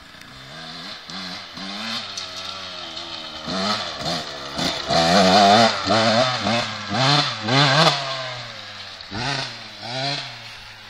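2001 KTM 125 SX's single-cylinder two-stroke engine revving up and down over and over, the pitch rising and falling in quick bursts. The loudest run of revs comes in the middle, with two more near the end.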